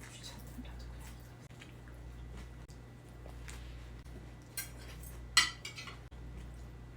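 Utensils tapping and clinking against dishes while food is handled, in scattered short clicks with the sharpest clink about five seconds in, over a low steady hum.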